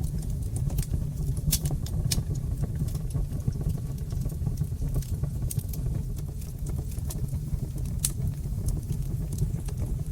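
Fire in a brick fireplace crackling: sharp, irregular pops and snaps over a steady low rumble, with the loudest pop about eight seconds in.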